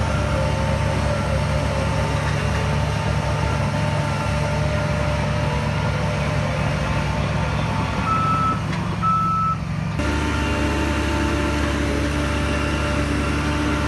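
Heavy diesel earth-moving machinery running steadily with a reversing alarm beeping. Two short beeps stand out about eight and nine seconds in. The engine sound changes abruptly about ten seconds in.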